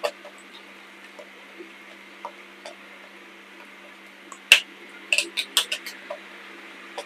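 Crisp crunches and snaps of chalk, scattered and sparse, with the loudest snap about four and a half seconds in and a quick run of crunches just after.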